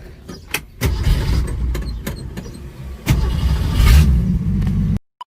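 Car engine started: a few clicks, then the engine catches about a second in and runs with a deep rumble. It revs up around three seconds in and settles back, then the sound cuts off abruptly near the end.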